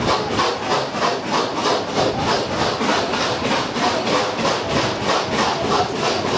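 Steam locomotive 3642 running at speed, its exhaust beating in a fast, even rhythm of about four to five chuffs a second.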